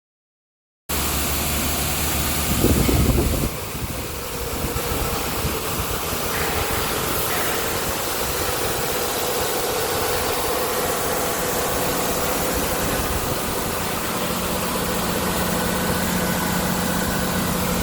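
A vehicle engine idling steadily after starting about a second in, with a louder low burst about two to three seconds in.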